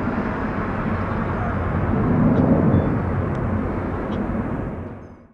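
Jet airliner engines heard outdoors as a plane passes: a steady rushing rumble that swells about two to three seconds in, then fades away near the end.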